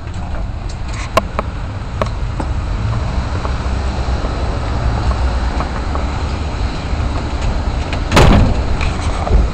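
Heavy rain pouring down as a steady hiss over a low rumble, with a loud thump about eight seconds in.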